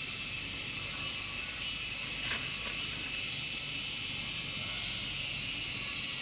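Steady high hiss of outdoor background noise, with one faint knock a little over two seconds in.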